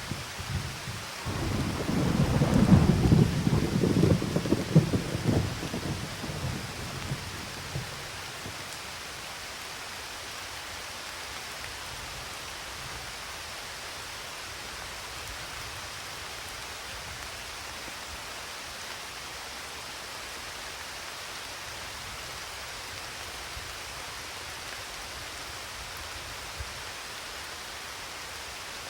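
Thunder rolling with a deep, crackling rumble about a second in, dying away over the next several seconds, over steady rain falling.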